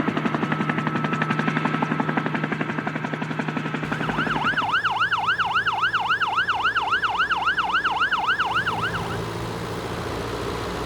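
Helicopter rotor chopping rapidly over a low hum, then, about four seconds in, an emergency-vehicle siren in a fast yelp, rising and falling about three times a second. The siren stops near the end, leaving a steady engine hum.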